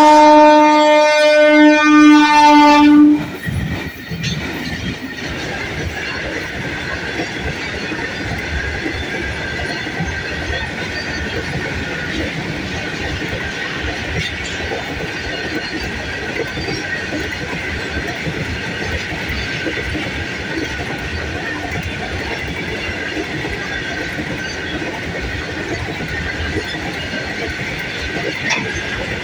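Electric locomotive horn sounding one long blast that stops about three seconds in. After that comes the steady rolling noise of a long goods train's covered wagons passing on the far track.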